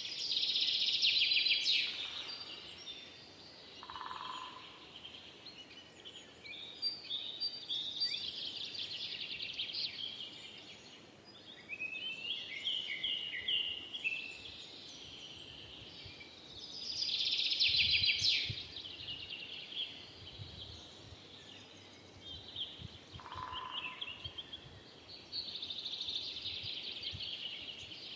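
Forest songbirds singing in repeated bursts of rapid, high trilling phrases, with a short lower call twice.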